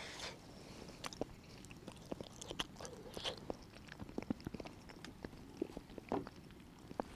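A person chewing a mouthful of foil-baked potato, with many small irregular mouth clicks.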